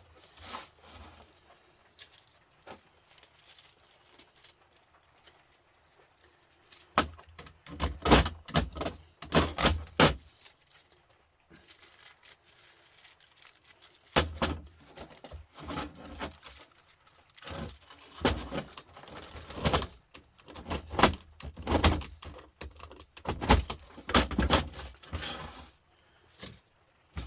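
Aluminium fins being stripped off a radiator coil's copper tubes: irregular flurries of sharp metallic clinks, snaps and crinkling. The first several seconds hold only a few faint clicks.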